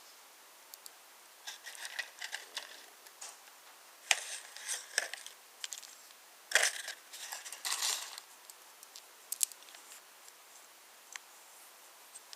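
Wooden toy trains handled and pushed along wooden railway track: irregular clicks, clacks and rustling in short bursts, loudest about six and a half seconds in.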